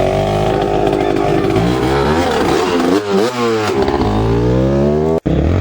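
Racing motorcycles going past, their engines revving up and down through the gears, with several engine notes overlapping. About five seconds in, the sound drops out for an instant.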